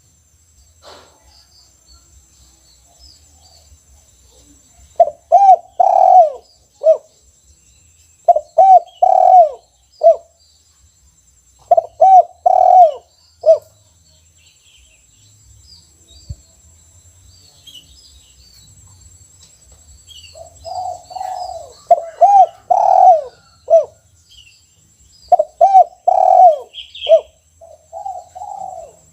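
Spotted dove (tekukur) cooing its song five times over, each phrase a run of rising-and-falling coos that ends in a single short separate note, the 'kuk 1' song pattern. Long pauses between phrases, the longest in the middle, with faint high twittering of small birds behind.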